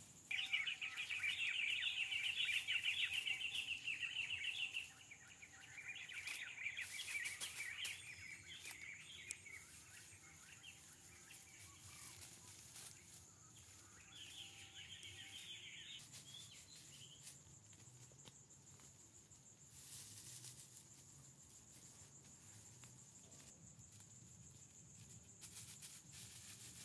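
Forest ambience: a bird calls in rapid chattering trills in three bouts, the loudest in the first five seconds, over a steady high insect whine, with scattered rustles and clicks.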